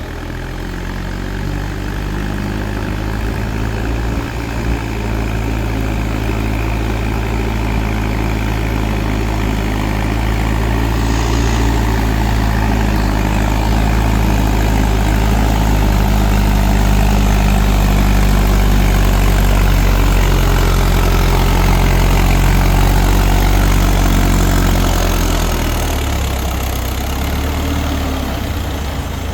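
Mahindra 4WD DI tractor's diesel engine running steadily. It grows louder through the middle and eases off about 25 seconds in.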